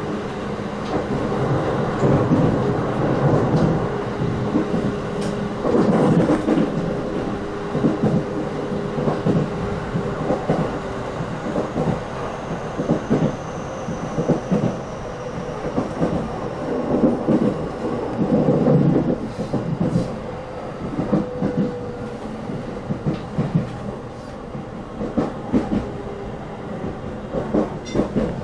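Inside a JR Tokaido Main Line local electric train running: continuous rumble with wheels knocking over rail joints. A faint high whine falls slowly in pitch midway as the train nears Samegai station.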